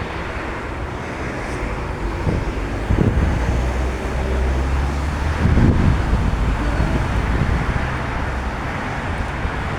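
Strong wind blowing across the microphone: a steady rush with low rumbling gusts thudding now and then.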